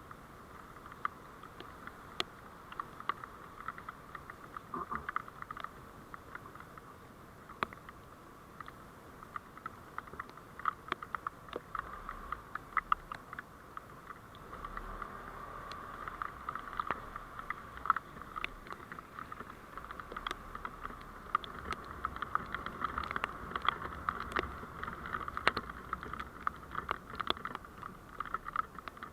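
Road noise of a moving vehicle picked up by a dashcam: a steady hiss with many small crackling clicks throughout and a low rumble that rises about halfway through.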